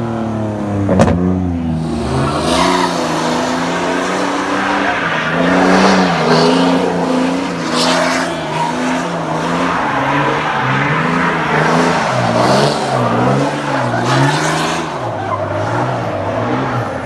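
Car doing donuts: its engine revs up and down in repeated waves while the tyres squeal and spin against the pavement.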